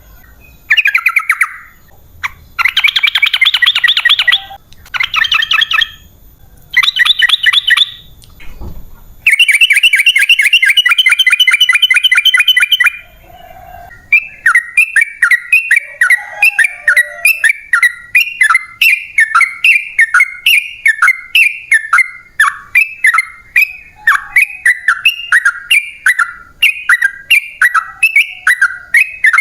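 Yellow-vented bulbul (trucukan) singing: several bursts of fast chattering trills, then, from about halfway, a long even run of short falling notes, a little over two a second.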